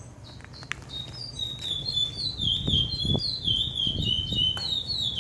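A songbird sings a fast run of short, down-slurred chirps over a low, steady rumble. The rumble is the Ford Fusion's 2.0 EcoBoost turbo four idling with its muffler deleted.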